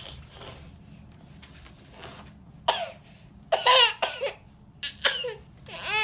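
A young child's short, high-pitched vocal sounds, four bursts in the second half with the pitch sliding, the last one falling, over a low steady hum.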